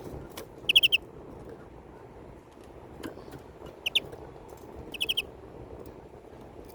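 European greenfinch calling: three short bursts of quick, high chirps, about a second in, just before four seconds and around five seconds.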